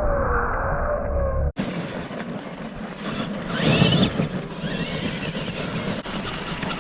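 Small electric motor of a radio-controlled truck whining, its pitch rising and falling with the throttle. It cuts off abruptly about a second and a half in, giving way to a steadier mix of outdoor noise with a brief louder patch midway.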